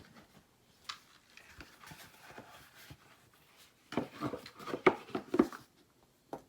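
Handling noises in a small room: scattered clicks and rustles, then a burst of knocks and clatter about four seconds in, and a single knock near the end.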